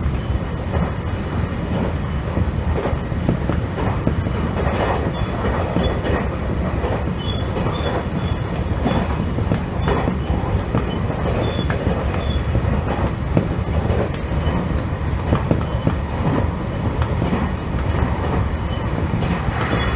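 A JR Ban'etsu West Line train running between stations, heard from inside the front car: a steady rumble with irregular clicking of the wheels over the track. A faint high squeal comes and goes.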